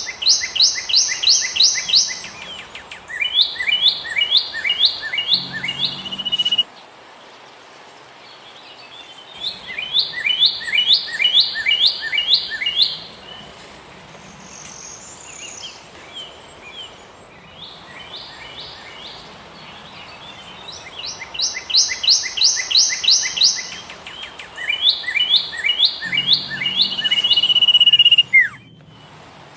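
Philippine pied fantail singing: about six phrases of quick, repeated rising-and-falling chirpy notes, each two to three seconds long with short pauses between, some ending in a brief held whistle.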